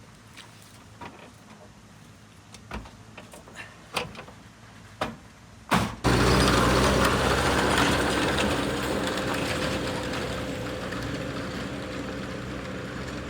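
A few light knocks and clicks, then from about six seconds in a motor vehicle's engine runs steadily with a low hum.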